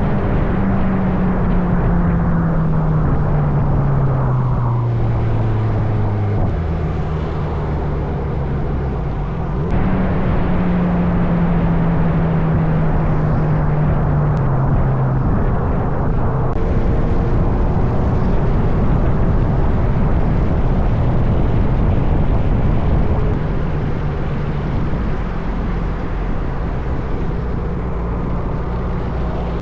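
Motorcycle engine running on the move, its note sliding down as it slows and jumping back up in steps with gear changes. In the middle, an even rushing noise covers it for several seconds.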